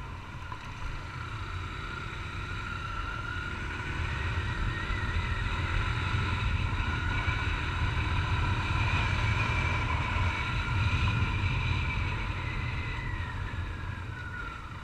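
Honda CG 150 Titan single-cylinder four-stroke motorcycle engine running on the road, heard from a helmet-mounted camera with wind rush. It builds up over the first few seconds, holds, and eases off near the end.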